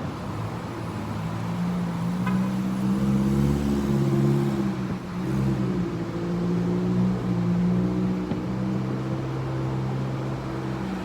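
A motor vehicle's engine running, a low hum that steps up and down in pitch and is loudest in the first half.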